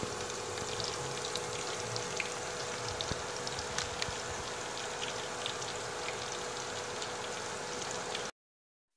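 Tsitsaron bulaklak (pork mesentery) sizzling and crackling as it fries in hot oil in a pan, with many small pops over a faint steady hum. The sound cuts off abruptly near the end.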